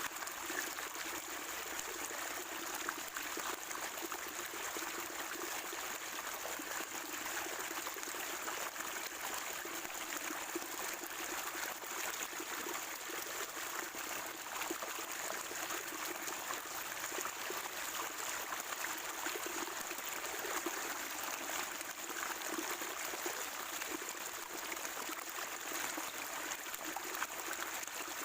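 Spring water trickling and gurgling steadily over stones, with no break or change.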